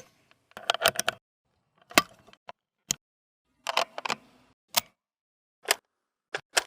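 Sharp metallic clicks and clacks of an AK-203 rifle's mechanism being handled, coming in about nine short bursts and clusters with brief gaps between them.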